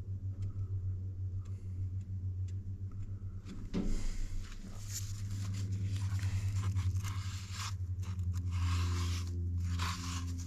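A piece of cardboard box scraping as it spreads JB Weld epoxy into a gap, in repeated rasping strokes from about four seconds in. A steady low hum runs underneath.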